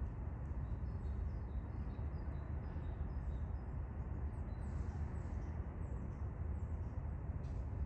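Birds chirping faintly, short high notes repeated several times a second, over a steady low rumble.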